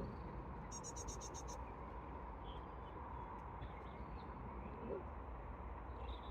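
Faint outdoor lake ambience: a steady low rumble, with a quick run of about eight high, evenly spaced bird chirps about a second in and a faint short rising call near five seconds.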